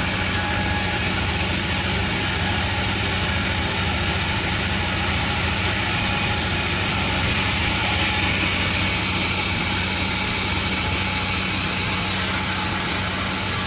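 Panda36 sawmill running steadily: a low machine hum under a constant hiss.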